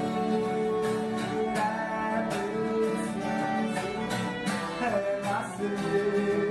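Background music: acoustic guitar being plucked in an instrumental passage of a song.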